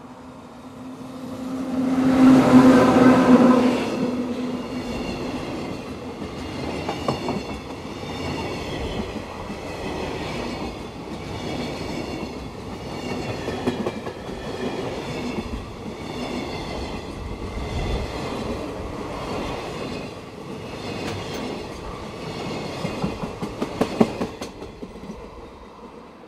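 An electric freight locomotive gives a horn blast of about two seconds as it reaches the camera. A long train of container wagons follows with a steady, rhythmic clickety-clack of wheels over the rail joints, ending in a quick run of louder clacks as the last wagons go by, then fading.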